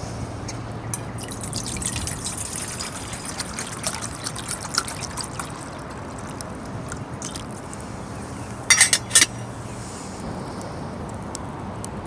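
Water being poured and trickling, with light clicks, and a quick run of three sharp knocks about nine seconds in.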